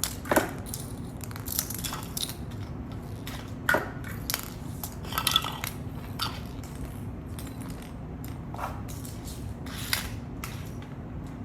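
Small toys and magnets being handled, with about ten light clicks and clacks of hard pieces knocking together, spread irregularly over quiet handling noise.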